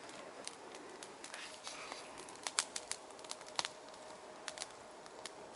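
Wood campfire of small twigs crackling, with irregular sharp pops and snaps over a faint low hiss.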